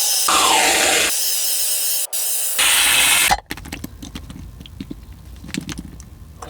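Loud hissing, spray-like noise in a few abruptly cut segments for about three and a half seconds, with a falling tone at about half a second in. Then quieter light clicks and rustles.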